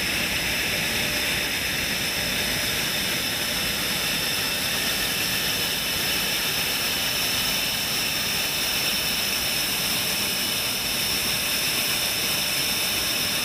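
Jet engine running steadily: an unchanging rushing noise with a constant high-pitched whine.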